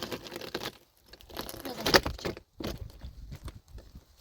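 Irregular rustling, crinkling and light knocks, with the loudest knock about two seconds in.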